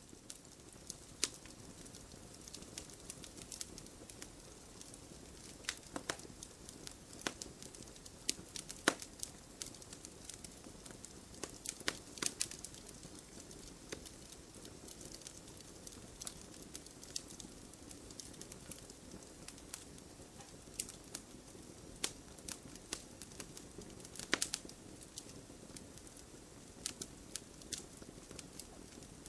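Campfire wood burning: a soft steady hiss under frequent, irregular crackles and sharp pops, with a few louder snaps among them.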